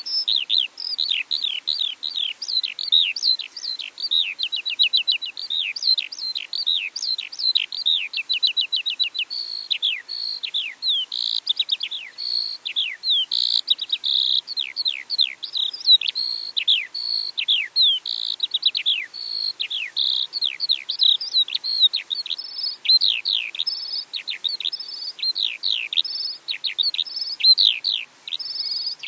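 Songbird singing: a steady stream of fast, high chirps that each slide downward in pitch, some in quick rattling runs and others more spaced.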